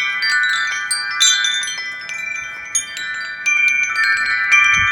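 Metal tube wind chimes ringing, struck over and over, with many overlapping sustained tones.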